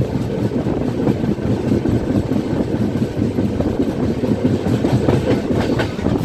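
Train running along the track, heard from aboard: a steady rumble of wheels on rails, with a few sharper clicks near the end.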